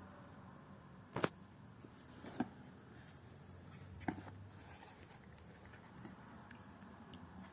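Ford Focus Mk1 heater blower motor running faintly with a low steady hum that dies away about four and a half seconds in. Three sharp clicks stand out above it, about a second in, about two and a half seconds in and about four seconds in.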